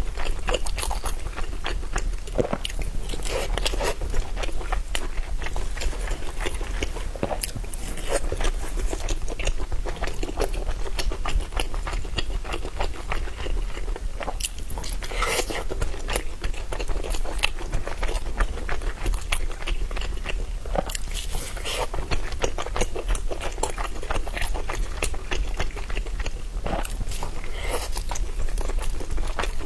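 A person eating close to the microphone: steady biting and chewing, made up of many small wet clicks and crunches.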